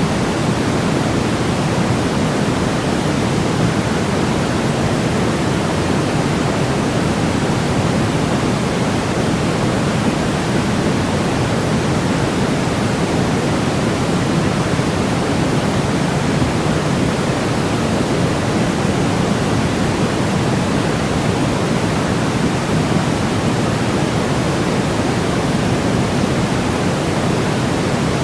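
Steady, unchanging white noise for baby sleep, a constant rush that is heavier and deeper than a bright hiss.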